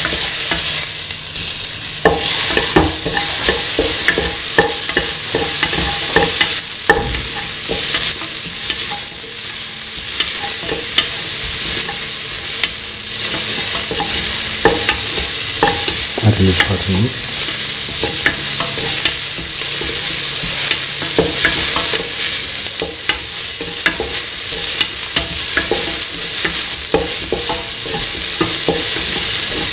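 Sliced onions, tomato and fennel seeds sautéing in oil in a stainless steel pan: a steady sizzle while they are stirred, with frequent clicks and scrapes against the metal.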